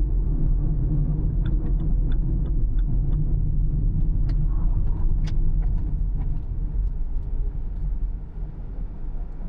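Car on the road, a steady low rumble of tyres and engine with scattered small ticks and clicks; the rumble dies down near the end.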